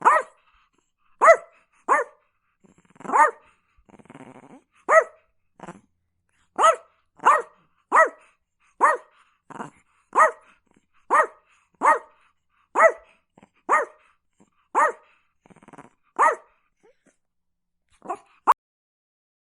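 A small dog barking: a long run of short, sharp single barks, roughly one every two-thirds of a second. About four seconds in there is a brief, rougher low sound between barks. The barking pauses after about sixteen seconds, then comes back with two last barks near the end.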